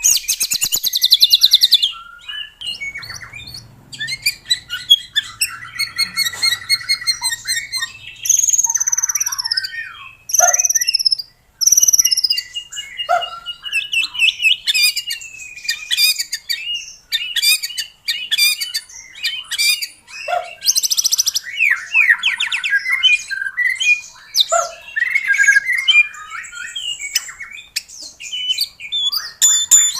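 White-rumped shama singing a long, varied song: clear falling whistles, fast high trills and rapid chattering phrases, one after another with short gaps.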